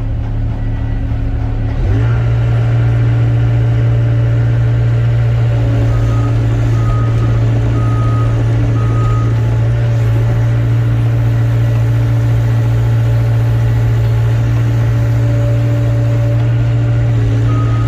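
Excavator's diesel engine running steadily, picking up load about two seconds in. Twice a short run of evenly spaced high warning beeps sounds over it, typical of a machine's travel or swing alarm.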